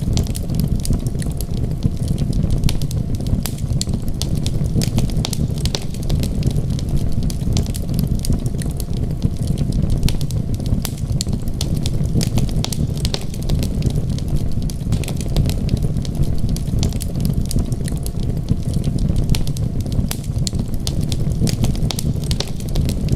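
Wood fire crackling with frequent sharp pops and snaps over a steady low rumble.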